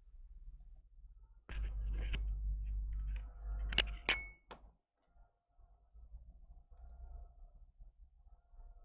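A low hum for a few seconds, broken by a couple of sharp clicks about four seconds in, then only faint scattered ticks.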